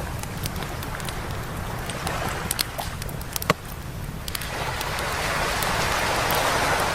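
Campfire crackling with sharp pops, one loudest about halfway through, while a wave washes in over the second half, building steadily as it surges up the beach.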